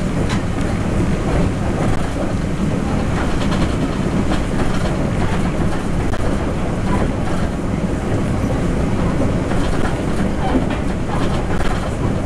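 Cabin running noise of a Taroko Express TEMU1000 tilting electric multiple unit at speed: a steady rumble of wheels on rail with scattered light clicks.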